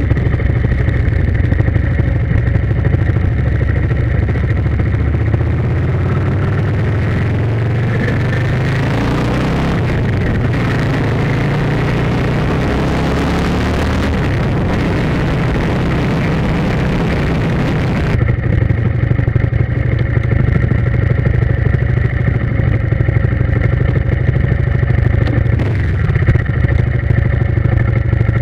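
A motor vehicle's engine running steadily under way. Its note rises between about 8 and 18 seconds in, with added noise, then settles back to a steady drone.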